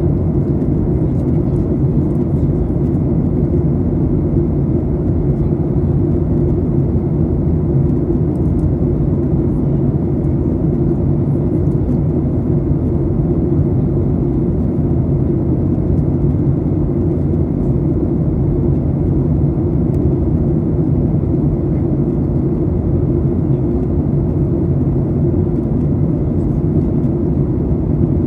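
Steady roar of a Boeing 737-800 airliner in flight, heard inside the cabin: engine and airflow noise, low-pitched and unchanging.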